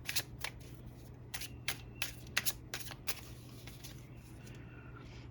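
A tarot deck being shuffled by hand: a quick run of card snaps and flicks over the first three seconds, then fewer and quieter, over a steady low hum.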